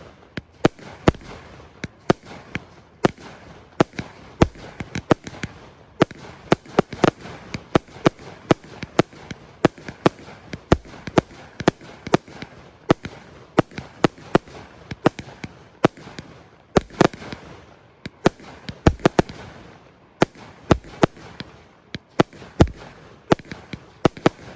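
A 100-shot firework cake firing in rapid succession: sharp bangs come about two or three a second, with crackling between them.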